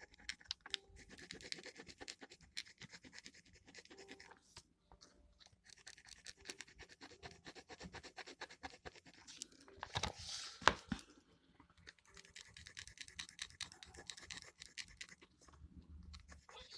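Gel pen tip scratching on paper in runs of short strokes, with brief pauses between them and a few louder clicks about ten seconds in.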